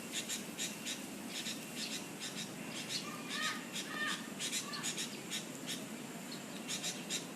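Birds calling: many short, high chirps repeating several times a second, with a few short arched call notes in the middle, over a steady low background hum.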